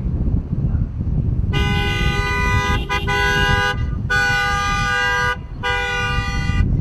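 Vehicle horn giving three long blasts, each a chord of several steady pitches, starting about one and a half seconds in, over a steady low rumble of wind and engines.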